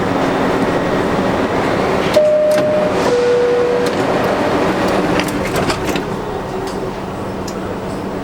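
R62 subway car's door chime, a two-tone descending bing-bong about two seconds in, with knocks as the doors work. All of it sits over the car's steady hum and noise.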